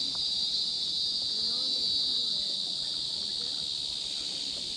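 Steady, high-pitched drone of a chorus of forest insects, unbroken throughout.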